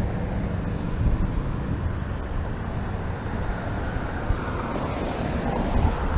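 Wind buffeting a GoPro's microphone while riding a fat-tire e-bike: a steady low rush with no distinct events.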